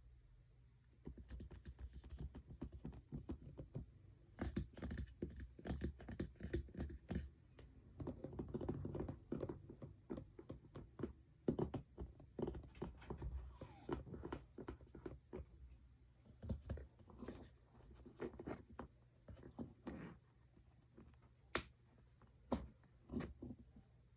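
Tapping and scratching on makeup packaging: quick, irregular taps in clusters, with a few sharper single clicks near the end.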